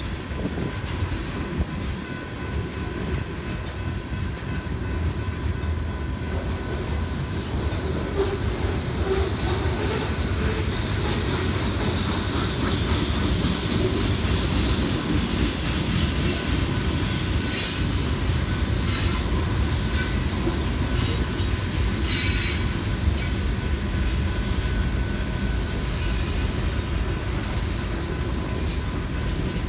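BNSF freight cars rolling through a grade crossing: a steady rumble and clatter of wheels on the rails, with bursts of high-pitched wheel squeal between about 17 and 23 seconds in. A steady ringing tone from the crossing signal bell sits underneath.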